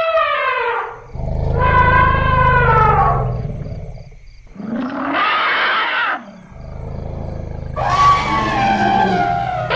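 Elephants trumpeting and calling: about four calls one after another, several falling in pitch at the end, two of them over a deep low rumble.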